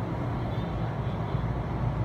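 JR West 207 series electric commuter train running, heard from inside the cabin: a steady rumble of wheels on rail and running gear as it moves along a station platform.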